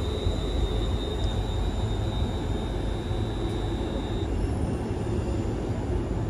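A train running past: a steady rumble with a thin high whine that stops about four seconds in.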